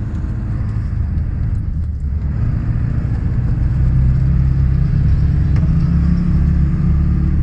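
Old Ford pickup truck's engine running and building up, growing louder over the first few seconds and then holding steady.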